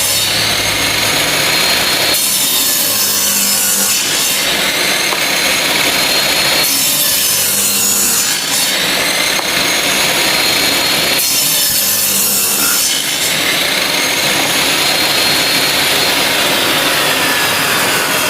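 Circular saw machine running under load, its sound changing in repeated passes about every two seconds, as in sharpening the teeth of a saw blade or cutting wood. In the last few seconds a high whine falls steadily in pitch.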